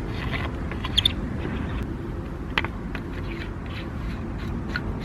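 Movement and handling noise on the microphone: a steady low rumble with a few sharp clicks and snaps, two close together about a second in, one about halfway through and one near the end.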